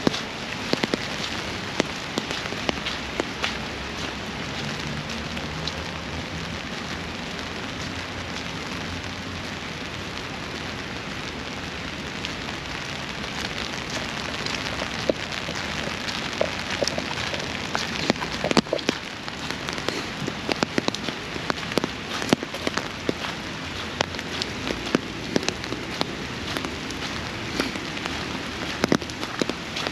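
Steady rain, with many individual drops ticking sharply on an umbrella held close overhead.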